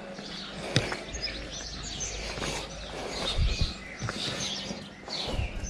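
Small birds chirping and singing in several short calls, over low outdoor background noise, with one sharp click about a second in and a few dull low thuds later on.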